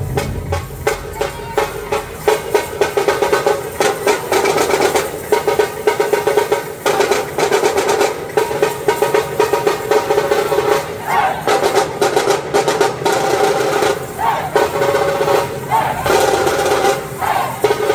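A dhol team drumming together in a fast, dense, driving rhythm.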